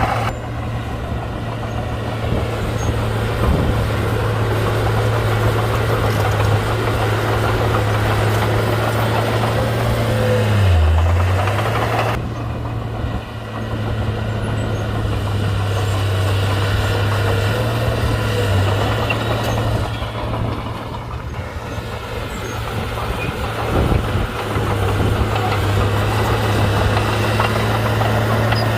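Komatsu D31-P bulldozer's diesel engine running under working load with a steady deep drone. Its pitch dips briefly about eleven seconds in, and it eases off a couple of times as the load changes.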